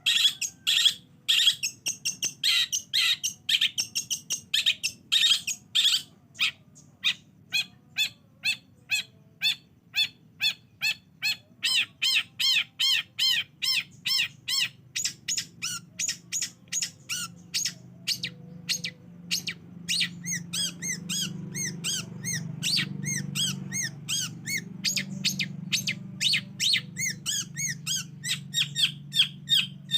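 Long-tailed shrike (cendet) song: a fast, unbroken run of short repeated chirps, about two to three a second, harsh and crowded in the first few seconds, then clean arched notes. A low hum rises underneath in the second half.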